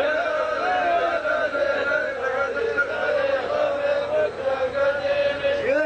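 Male chanting of a slow, drawn-out melody, the voice holding long wavering notes with few breaks.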